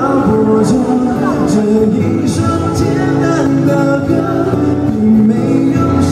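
A band playing a pop song live, with a man singing the melody over sustained chords and light cymbal strikes.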